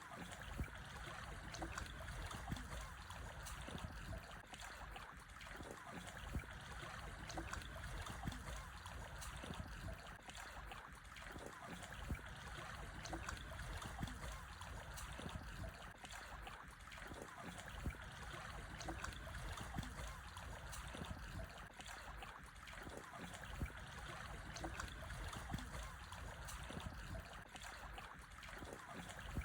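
Calm sea waves washing over black stones on a shore: a steady wash of water broken by many small splashes and trickles as it runs between the rocks.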